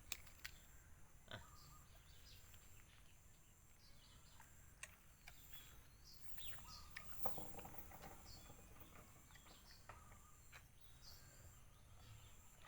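Quiet outdoor background with faint scattered bird chirps and a few light clicks.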